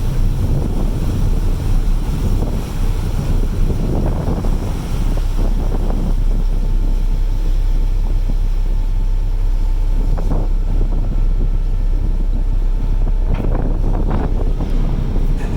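Steady low rumble of a ferry's engines, with wind buffeting the microphone and water washing.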